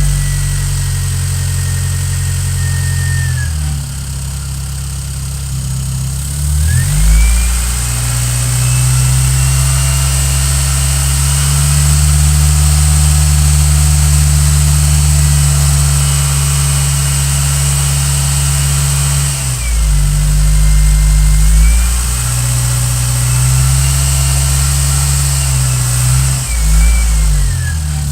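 1997 Geo Metro engine running and being revved. Its speed drops a few seconds in, climbs back and holds high for a long stretch, then falls and rises again twice near the end.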